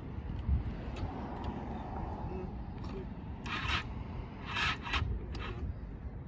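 Two short scraping rubs, about three and a half and four and a half seconds in, with a few light ticks: a motorcycle seat or cover being worked loose to get at the battery. Steady low wind rumble underneath.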